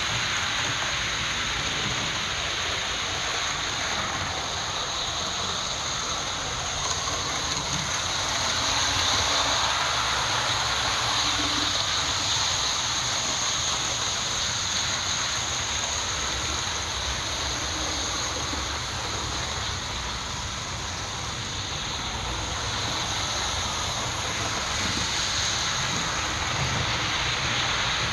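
Model trains running on a layout: a steady whir and rolling hiss of small motors and wheels on the track, swelling a little twice.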